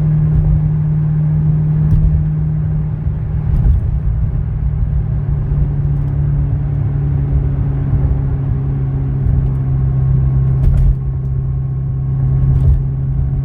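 2010 Corvette ZR1's supercharged 6.2-litre V8 running at a steady cruise with a low drone over road rumble; its note dips slightly about three seconds in, then holds steady.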